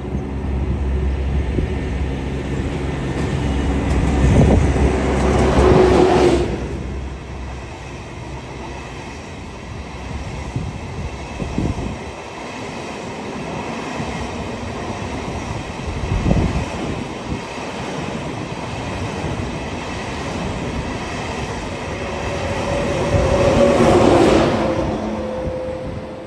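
Two coupled ICE high-speed train sets running on the line, a continuous rumble of wheels on rail with a steady tone. It is loudest about four to six seconds in, eases off, then swells again near the end.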